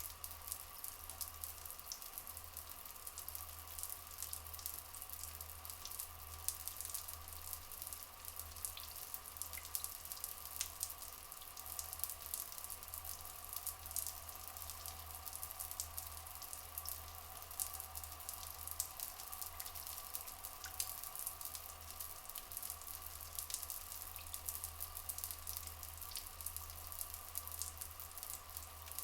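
Running water with a dense patter of drips and fine crackles, over a steady drone.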